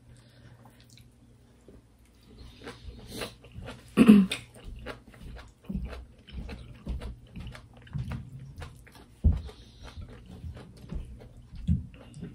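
Close-miked chewing and eating of rice and curry by hand, starting about two seconds in: a steady run of small wet mouth clicks and smacks, with a couple of louder ones about four and nine seconds in.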